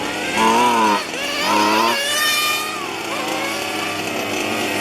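Small two-stroke petrol engines of 1:5-scale RC cars revving on and off the throttle, their pitch swooping up and down. About two seconds in, one car screams past at high revs, followed by a steadier drone of engines running further off.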